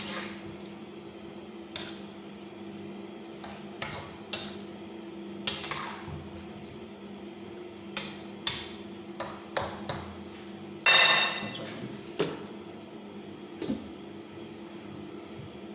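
Metal utensil knocking and scraping against a cooking pan at irregular intervals while stir-frying pancit noodles, with one longer ringing scrape about eleven seconds in, over a steady low hum.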